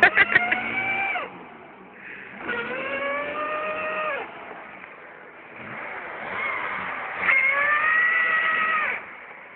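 Trabant's two-cylinder two-stroke engine revved hard in three bursts of one to two seconds each. Each burst holds its pitch, then drops as the throttle is let off, while the stuck car is driven to get it free.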